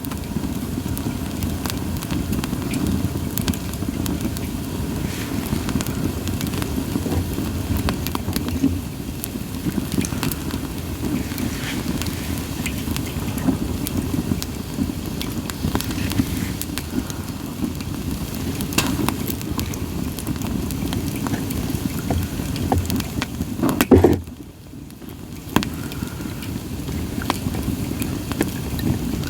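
Wood fire of split sawtooth oak (kunugi) logs burning, with scattered crackles and pops over a steady low rush of flame. About three-quarters of the way through, a louder burst is followed by a brief lull before the fire sound resumes.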